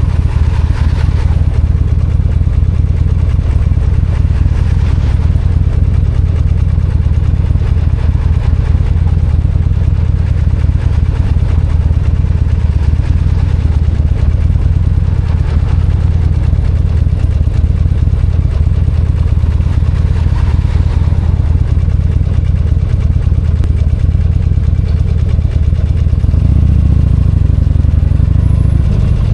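V-twin motorcycle engine running with a steady low beat; near the end the revs rise briefly and fall back.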